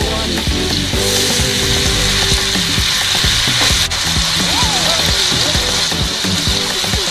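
Food frying in hot oil in a pan, with a steady sizzle, over background music.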